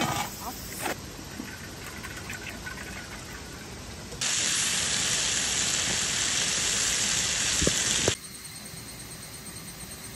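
Ice cubes clinking into a stainless steel bowl in the first second, then pork and green beans sizzling loudly in a frying pan for about four seconds, cutting off abruptly.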